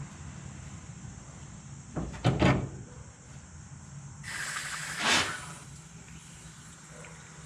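Two or three loud clunks, then a hiss of water that starts suddenly about four seconds in, as a garden hose forces water through the heater core lines to flush out a stopped-up heater core.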